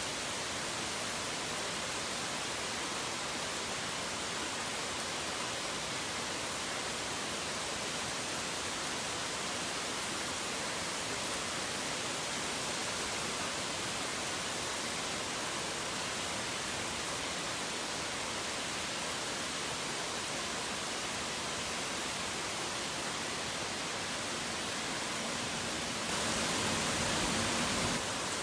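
Rain falling steadily as an even hiss of drops. About 26 seconds in it gets a little louder and fuller for about two seconds, then settles back.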